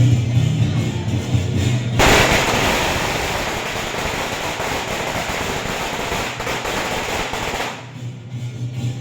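Music with a steady low drone. About two seconds in, a long string of firecrackers sets off a dense, rapid crackle that drowns the music for about six seconds. The crackle stops near the end and the music comes back.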